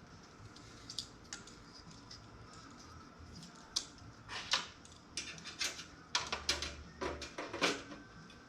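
Irregular clicks, taps and short scrapes of small computer parts being handled and fitted, bunched together in the second half.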